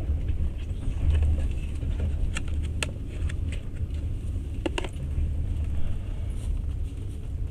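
Passenger train carriage running, a steady low rumble from the moving train, with a few short light clinks, about two and a half and three seconds in and a quick pair near five seconds.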